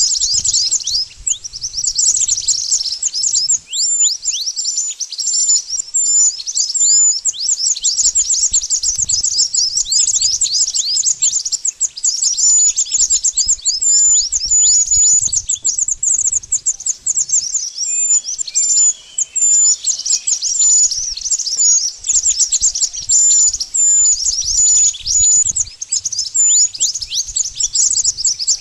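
Mantenan bird calling: a rapid, unbroken stream of short, high, downward-sweeping chirps, some ending in a hooked note at the top.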